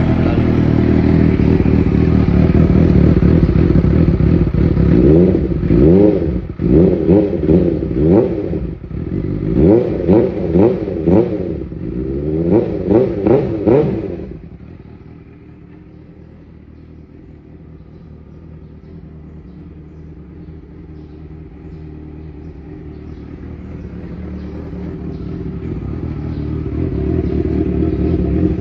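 A big motorcycle engine idling just after starting, then revved in a string of short throttle blips. About halfway through, the sound drops away sharply and then slowly grows louder again toward the end.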